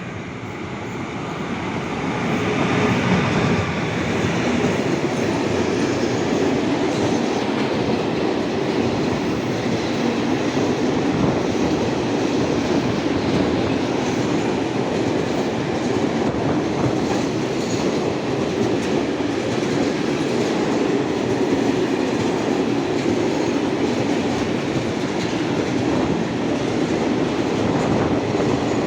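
Train passing, its wheels clattering over the rail joints; the sound grows louder over the first three seconds, then stays loud and steady.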